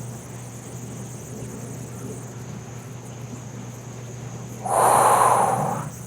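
A person breathes out audibly for about a second near the end, the loudest sound here, over a steady faint background of a flowing river.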